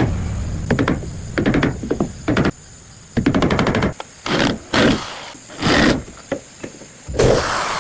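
Hand-tool construction work: a series of irregular sharp knocks, then several short scraping strokes about half a second to a second apart.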